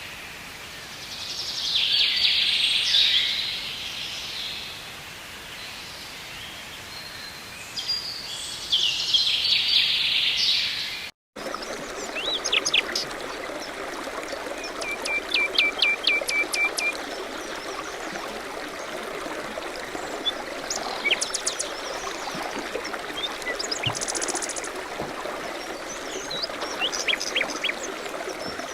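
Wild birds calling and singing over a steady outdoor background hiss. The sound breaks off briefly about eleven seconds in and resumes with a different scene, where one bird repeats a short note about eight times in quick succession and another gives a high buzzy trill.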